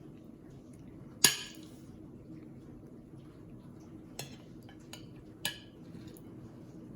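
Dishes and utensils clinking: one sharp, ringing clink about a second in, then a few lighter clicks and taps, over a faint steady hum of room tone.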